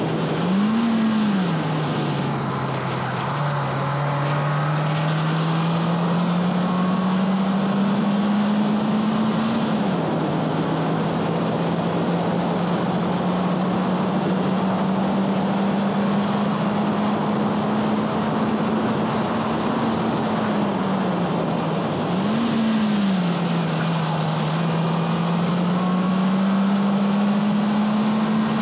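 A 2011 Honda Fit Sport's 1.5-litre four-cylinder engine pulling hard on track, its revs climbing slowly through long stretches. An upshift drops the revs about a third of the way in. Two quick throttle blips, near the start and about three-quarters through, are heel-toe downshifts being rev-matched.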